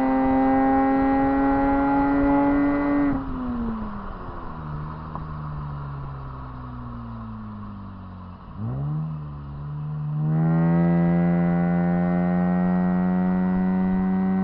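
Lexus IS200's 1G-FE inline-six, running through an exhaust with no catalytic converters, heard from inside the car. It pulls hard at high revs with a slowly rising note. About three seconds in the throttle closes and the note drops and falls in pitch as the car coasts. A quick rise and fall in pitch comes near eight and a half seconds, and from about ten seconds it is back on full throttle, loud and climbing again.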